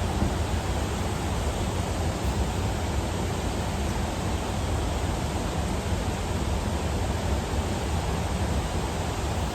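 Steady rushing noise of wind and water while a small fishing boat runs across the river, with a low rumble underneath.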